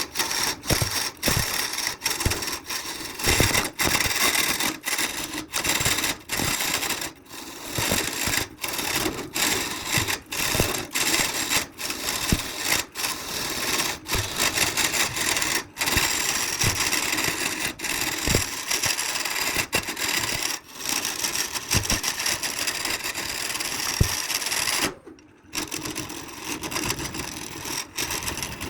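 Power tools working wood in a workshop, a steady grinding, sawing kind of noise that breaks off briefly every second or so and stops for about half a second near the end.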